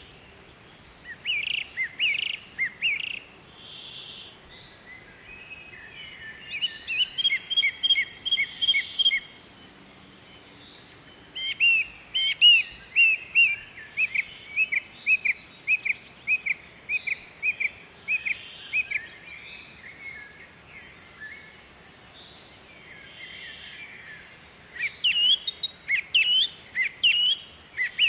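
Songbirds chirping in bouts of rapid, short, high notes, each bout lasting a few seconds, with softer calls between them.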